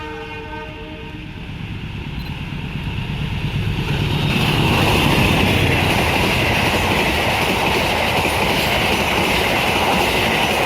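A train horn sounds briefly at the start. Then a train runs in close by: wheel and rail noise builds and turns loud and steady about four seconds in, with a high ringing tone over the low rumble.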